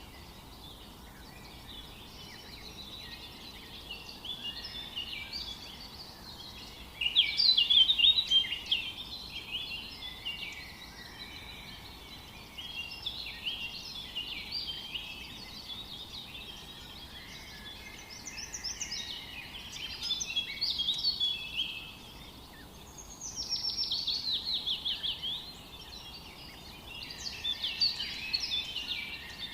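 Songbirds singing in overlapping chirps and trills over a faint steady background hiss, with a loud burst of song about seven seconds in and a fast run of falling notes later on.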